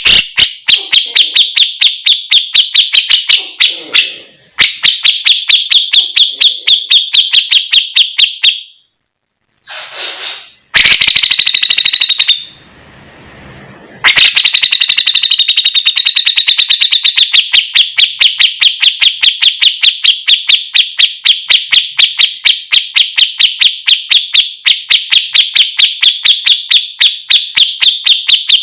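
Javan grey-cheeked bulbul (cucak jenggot) singing vigorously: a long, rapid string of sharp, repeated chattering notes, about five a second, broken by a few short pauses.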